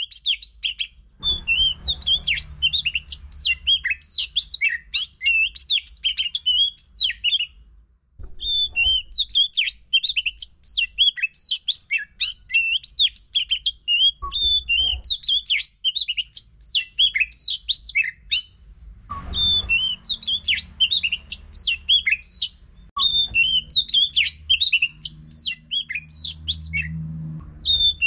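Oriental magpie-robin (kacer) singing a fast, unbroken run of varied chirps and whistles, pausing briefly twice. It is the kind of song used as a lure to get a silent kacer singing again.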